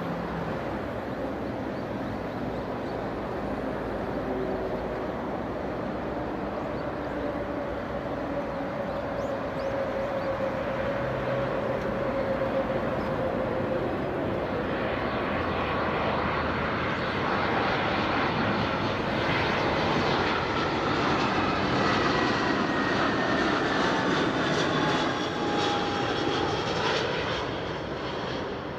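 Jet airliner's engines on landing approach, a rushing rumble with whining tones that slowly drop in pitch, growing louder as it comes close and passing about twenty-five seconds in.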